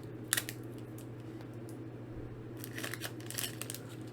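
Foil Pokémon booster pack being handled and opened: a sharp snap about a third of a second in, then a cluster of crinkles and clicks near the end, over a steady low electrical hum.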